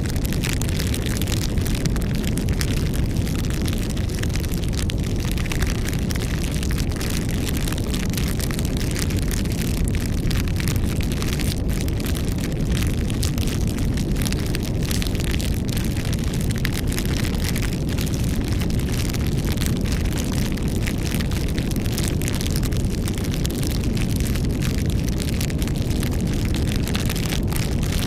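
Wood campfire burning: a steady low rush of flame with frequent small crackles and pops throughout.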